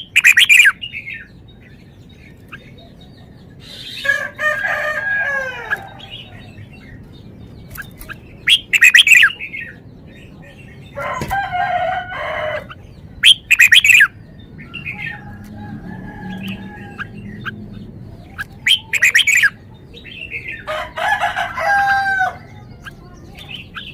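Red-whiskered bulbul singing loud, short phrases every few seconds, with pauses between them.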